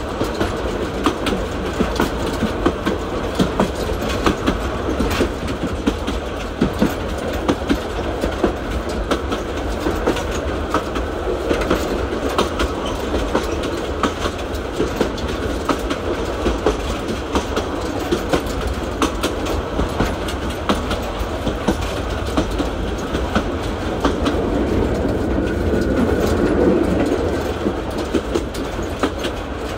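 Train running on rails: a steady rumble with an irregular stream of wheel clacks over the rail joints, swelling louder for a few seconds near the end.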